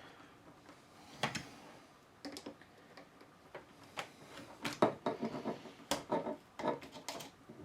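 Irregular plastic-and-metal clicks and knocks of a jammed telescopic suitcase handle being pushed down into its tubes, starting about a second in and coming more often through the second half. The handle has a bit of springiness and doesn't stay in.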